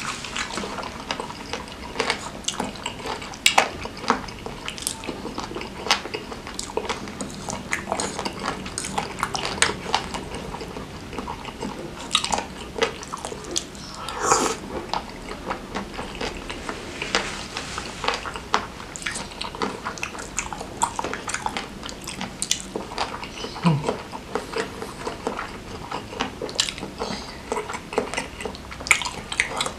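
Close-miked chewing and wet mouth sounds of a person eating spicy boneless chicken feet in chilli sauce: many short smacks and clicks, with a louder bite about halfway through.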